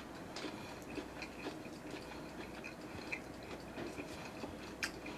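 Faint chewing of a bite of crunchy deep-fried sausage, with scattered small clicks.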